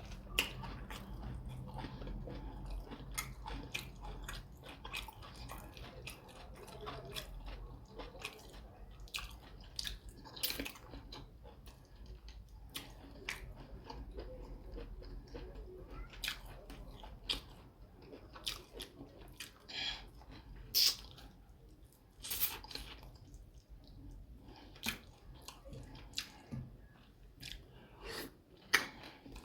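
Close-miked mouth sounds of a person eating fufu with soup: chewing, wet smacks and sharp lip clicks at irregular intervals over a low steady hum.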